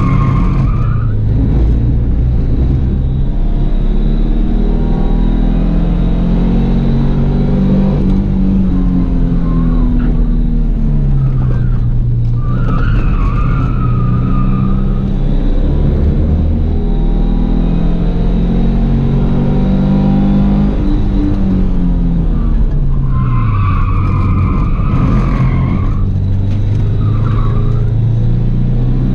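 Subaru Impreza 1.8's flat-four engine heard from inside the cabin on a fast lap, revving hard, rising through the gears and falling away on lifts and braking. Tyres squeal through corners at the start, about twelve seconds in, and twice near the end.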